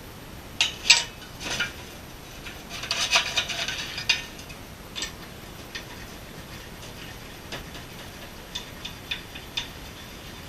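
Clinking and clattering of metal engine parts and tools being handled on a workbench: a couple of sharp knocks about a second in, a rattling burst around three seconds in, then a few light ticks.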